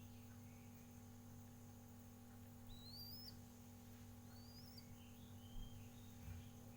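Faint high chirps and two short rising whistles from small birds over a steady low hum, with two soft low thumps near the end.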